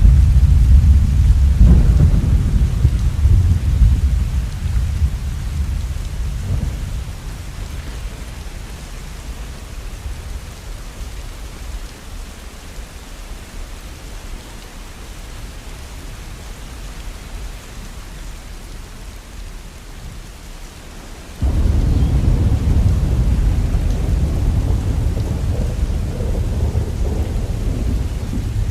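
Steady rain with rolling thunder: a deep rumble fades away over the first ten seconds or so, leaving the hiss of rain, and about three-quarters of the way through a new peal of thunder starts suddenly and rumbles on.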